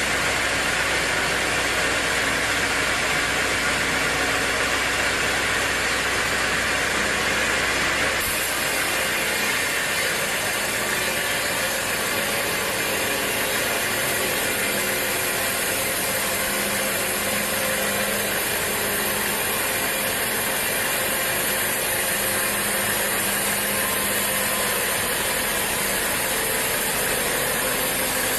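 Sawmill machinery running steadily with a dense mechanical clatter; the sound changes abruptly about eight seconds in, losing its low rumble.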